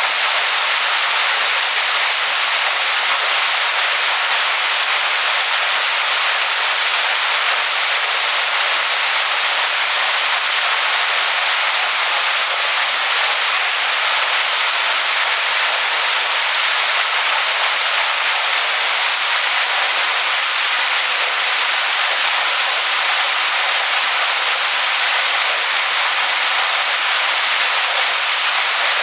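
Waterfall rushing over rocks: a steady, unbroken hiss of falling water, heavy in the upper range with little low rumble.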